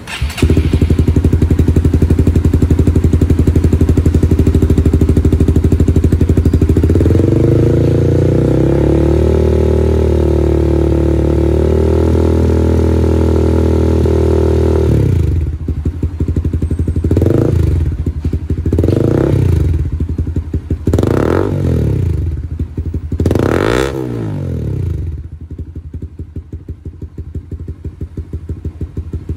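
Honda CB150R's single-cylinder engine running through an aftermarket hexagonal full exhaust system. It idles, rises about a quarter of the way in to a steady hold at roughly 5000 rpm, and drops back to idle about halfway through. Then come four quick throttle blips, each revving higher than the last, and it settles back to idle.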